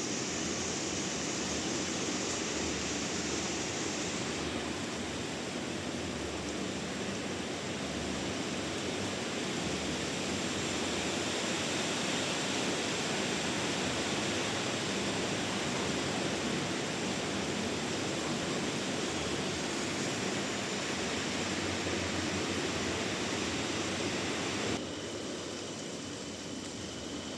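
Band sawmill cutting through a large trembesi (rain tree) log, a steady rushing noise that drops abruptly and becomes quieter near the end.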